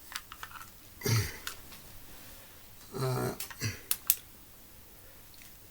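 A man's short vocal sounds, a brief hum or mumble about a second in and another about three seconds in, then two sharp clicks just after four seconds, with a few faint small clicks between.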